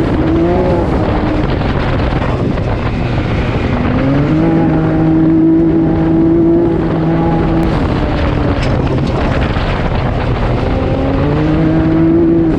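An off-road vehicle's engine running under load while riding, with rough wind and terrain noise. The engine pitch climbs and holds several times: briefly at the start, for a longer stretch from about four to seven seconds, and again near the end, each time easing off after.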